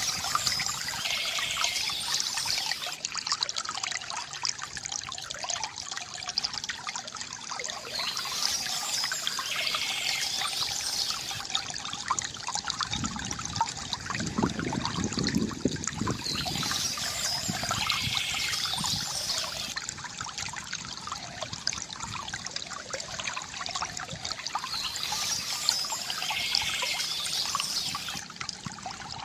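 Water trickling and splashing steadily from a bamboo fountain, with a brighter, higher patch of sound that comes back about every eight seconds and a deeper gush of water about halfway through.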